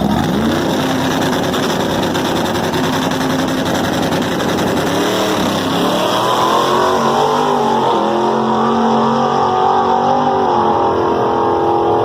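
Dodge muscle car engine running loud and revving: the pitch climbs shortly after the start and again about five seconds in, then holds at a steady high rev.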